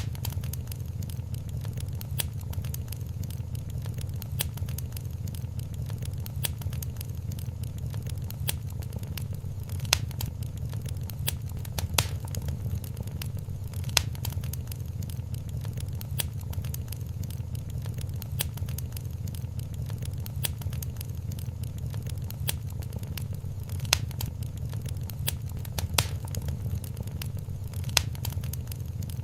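Wood fire in a fireplace crackling, with a steady low rumble of the flames and frequent sharp pops and snaps, a few louder than the rest.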